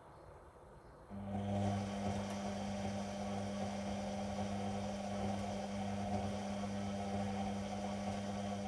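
Whirlpool front-loading washing machine humming steadily in the phase before its spin, starting abruptly about a second in and stopping just at the end.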